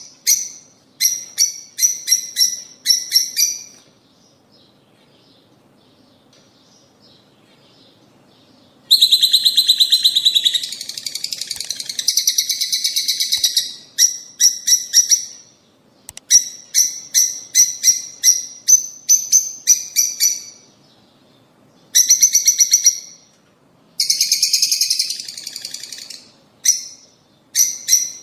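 Lovebirds chattering in bursts of rapid, shrill chirps. After a pause of several seconds near the start, a dense stretch of chatter follows, then more short runs of chirps.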